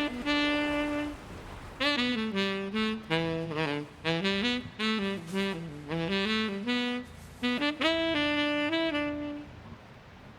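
Background music: a solo saxophone playing a melody of held and moving notes, with brief pauses between phrases and a quieter stretch near the end.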